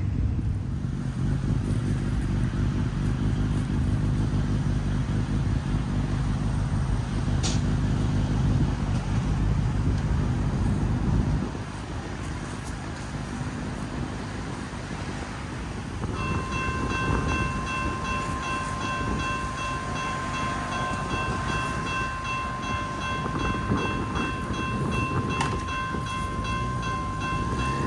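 A freight train's diesel locomotive running past, its heavy low engine note dropping away about eleven seconds in. From about sixteen seconds a steady set of high ringing tones joins over the quieter rumble of the train.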